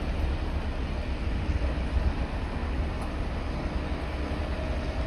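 Diesel engine of a road roller running with a steady low rumble and a faint hum.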